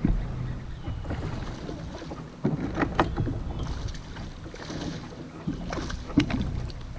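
Wind rumbling on the microphone, with several sharp knocks and clunks of movement against a kayak hull.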